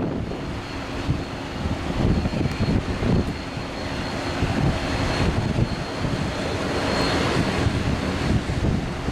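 Aircraft engines running close by: a steady high whine over a broad rushing noise.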